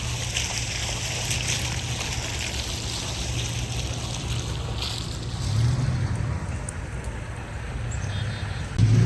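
Pickup truck driving slowly over a bumpy road, its engine a steady low hum under tyre and road noise, swelling briefly twice.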